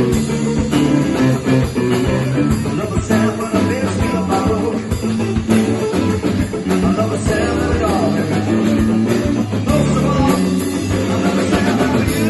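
Live rock band playing an instrumental passage: guitar over a steady drum beat.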